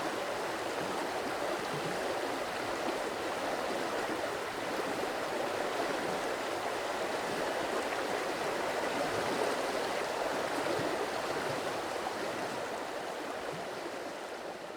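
A stream of water running steadily. It begins to fade out near the end.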